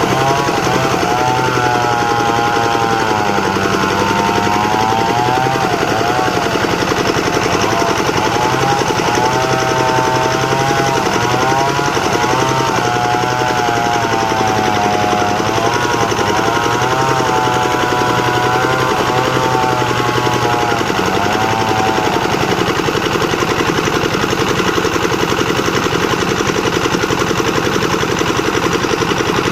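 Plank-making sawmill machine running loudly and steadily, with a pitched whine that wavers up and down and stops about three-quarters of the way through, leaving the plain running noise.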